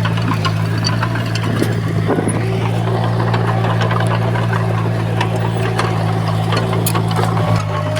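A heavy diesel engine on construction machinery running steadily at a constant low pitch, with scattered clicks and clinks over it.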